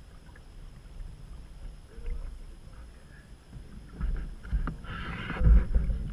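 Canoe being paddled: water splashing and a few knocks of paddle against hull, loudest about five seconds in, over a steady low rumble.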